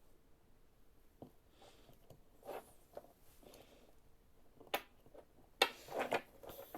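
A BMW ignition coil being handled and fitted to a spark tester: scattered light clicks and rustling of plastic and metal parts, with a sharper click just before five seconds and a short clatter about a second later.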